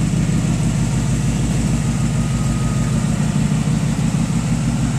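2002 Ford F-150 Harley-Davidson's supercharged V8 idling steadily through its side-exit exhaust, with an even low pulse.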